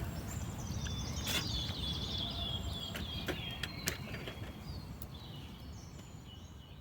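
A bird singing a run of quick chirps over a low outdoor rumble, with a few sharp clicks; the sound fades out near the end.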